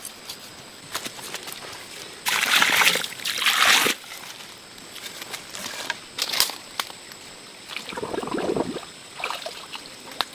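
Water sloshing and splashing: two loud splashes in quick succession a little over two seconds in, a lower, duller slosh near the end, and small knocks and clicks between.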